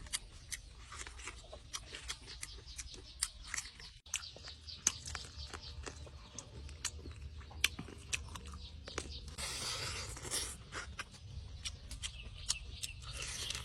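A person eating braised chicken legs at close range: chewing and biting, with many sharp crunches and clicks. There are two brief rustling bursts, one about ten seconds in and one near the end.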